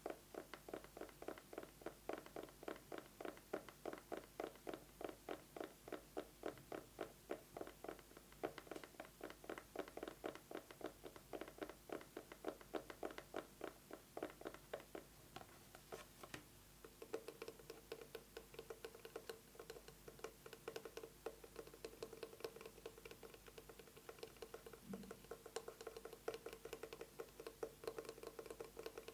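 Fast fingernail tapping on an eyeglasses case, a quick continuous patter of light taps. A little over halfway through, the taps become denser and lighter, with a steady low tone underneath.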